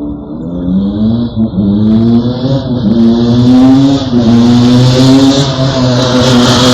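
Motorcycle with a modified, loud exhaust, its engine revved up and down again and again.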